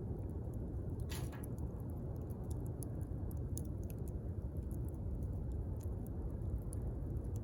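Wood campfire burning with a steady low rush of flame and frequent small pops and crackles, one louder crackle about a second in.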